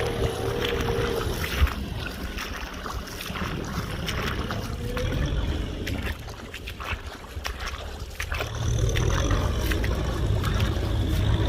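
Kubota M6040SU tractor's diesel engine running steadily, dropping off in the middle and getting louder again about three-quarters of the way through, with scattered clicks and rattles.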